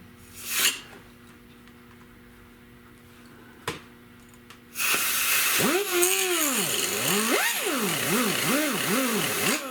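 Handheld power cutting tool biting into a plastic taillight lens, its motor pitch dipping and climbing again and again as it loads up in the plastic. It starts about five seconds in, after a short burst and a quiet stretch with a faint hum and a click.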